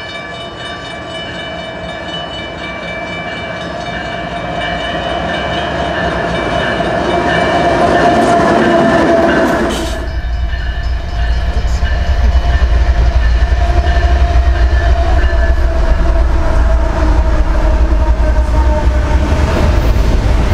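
CN GE ES44AC locomotives approaching, their diesel engines running with a steady drone and tones that grow louder. About ten seconds in, this cuts abruptly to intermodal double-stack cars rolling past close by, a loud low rumble that keeps on to the end.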